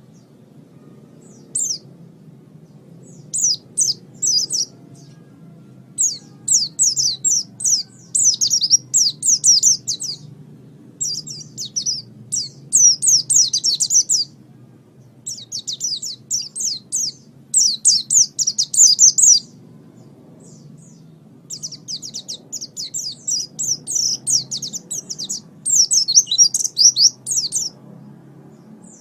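A pleci (white-eye) singing a high, fast twittering song in phrases of one to three seconds with short pauses between them. A faint low hum runs underneath.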